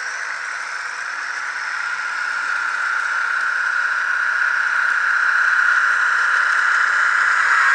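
Sound decoder in an HO-scale Budd RDC model playing its Galloping Goose engine sound through a small speaker: a steady, raspy hiss like a bad muffler, growing steadily louder.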